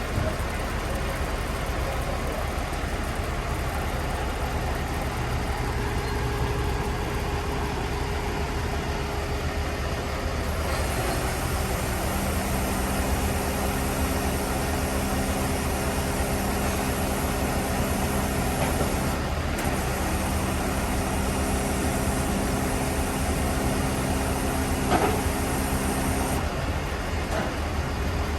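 Heavy diesel truck engine running steadily. About eleven seconds in, a steady whine and hum join it and cut off near the end, with a single knock shortly before.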